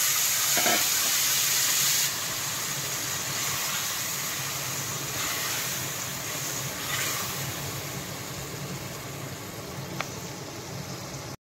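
Mango pulp and seeds sizzling in hot oil tempering in a pan, a steady frying hiss that drops about two seconds in and then slowly dies down. A single faint tick near the end.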